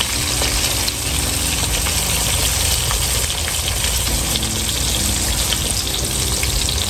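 Breaded chicken breast shallow-frying in hot avocado oil: a steady sizzle with scattered small pops, over a low hum.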